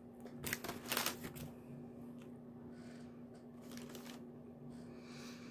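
A person biting into a crusty bread crust and chewing it. Two loud crunching bites come about half a second and a second in, followed by softer chewing over a steady low hum.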